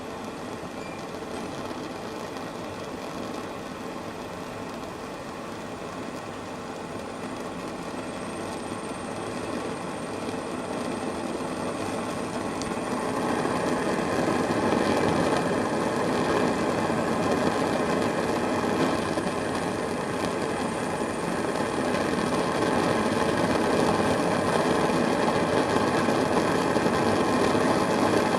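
Homemade spirit-fuelled Supa Burner for model steam engine boilers burning with a steady rushing sound like a blowtorch. It gets louder about halfway through, as the warming fuel reservoir strengthens the blowtorch effect.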